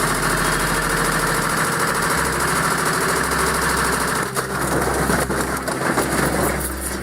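Beko washing machine running hard on a spin, a loud steady whirr and rattle, with irregular knocks and bangs from about four seconds in.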